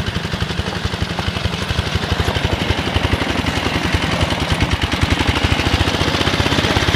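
Engine of a 1962 David Bradley Sears garden tractor with snowblower running, with a fast, even firing beat that grows a little louder over the last few seconds.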